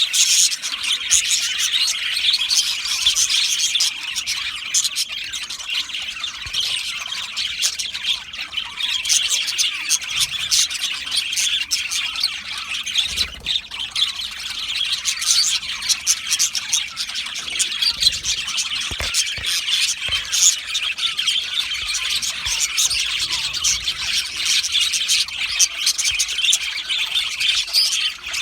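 A colony of budgerigars chattering, with many overlapping chirps, warbles and squawks in a continuous din.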